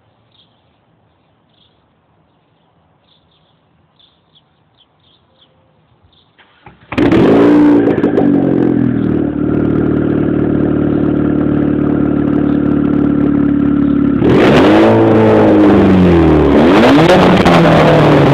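Dodge Caliber SRT-4's turbocharged 2.4-litre four-cylinder, straight-piped with no muffler and no catalytic converters on a 3-inch exhaust. After about seven seconds of near quiet it starts up, flares and settles to a steady idle, then is revved up and down several times from about fourteen seconds in.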